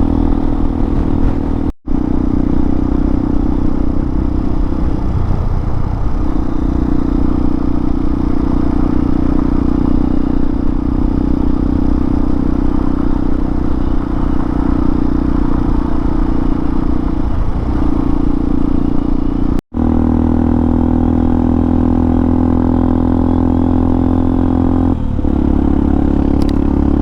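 Hawk 250 dual-sport motorcycle's single-cylinder engine running steadily under way, with wind and road noise. Its note shifts a few times, and the sound cuts out for an instant twice.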